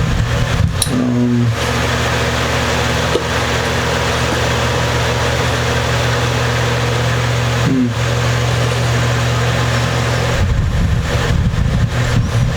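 A steady machine hum with an even hiss, unchanging throughout, with two brief faint squeaks, one about a second in and one near the eight-second mark.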